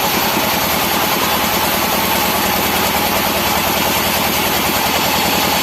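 Sawmill machinery running steadily, its engine turning over evenly with a faint steady whine on top.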